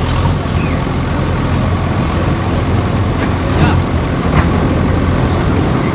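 Heavy diesel engine of a construction machine running steadily, with a couple of short sharp knocks about halfway through.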